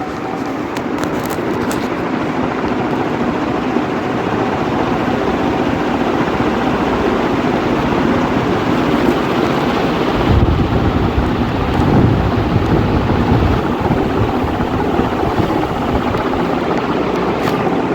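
Quiet Pak ceiling fan running: a steady whir of the motor and blades moving air, with a deeper rumble swelling from about ten seconds in.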